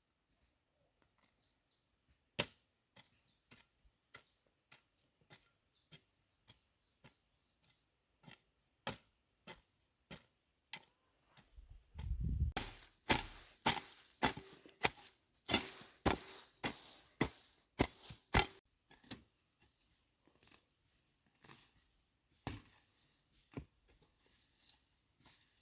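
Irregular sharp knocks and taps of hand tools working on wood, coming thicker and louder through the middle stretch, with a dull thump about halfway.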